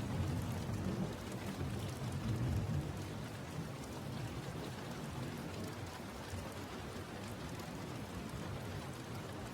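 Steady rain falling, with a low rumble of distant thunder over the first few seconds that fades away.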